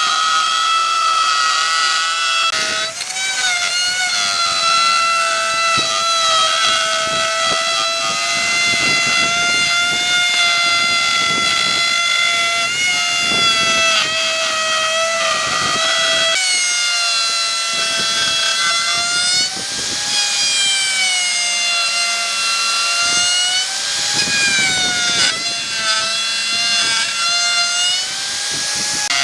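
Electric power tool motor whining at a high pitch, the pitch sagging and recovering several times as the tool is loaded by cutting into wood.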